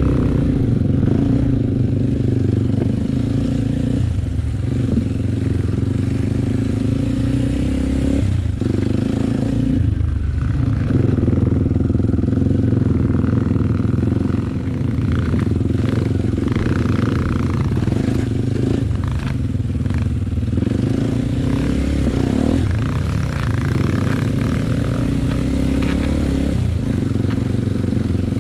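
Enduro motorcycle engine running steadily while being ridden, its note briefly dropping off about six times.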